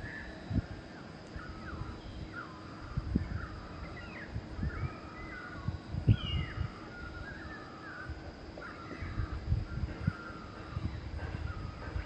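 Wild birds calling outdoors: a steady run of short, varied, gliding calls, some of them harsh and crow-like. Under them are irregular low thumps, loudest about six seconds in.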